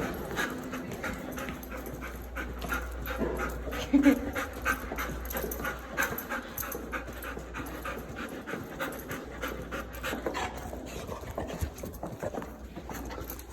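Golden retriever puppy panting quickly and steadily, about four breaths a second.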